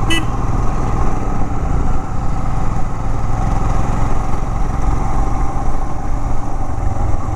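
Motorcycle engine running steadily while riding at an even pace, with road and wind noise.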